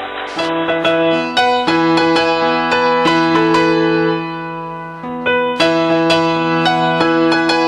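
Keyboard playing a melody over held chords, easing off briefly about four and a half seconds in before picking up again.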